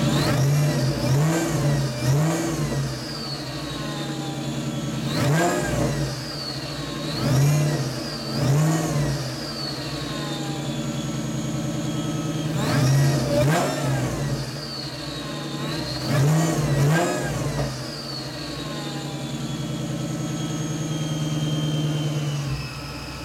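2003 Mustang SVT Cobra's supercharged 4.6-litre DOHC V8, with a ported Eaton blower on a small pulley and running on E85, idling and blipped briefly by hand about ten times in short clusters. Each blip brings a rising then falling supercharger whistle over the engine note. It settles to a steady idle over the last few seconds.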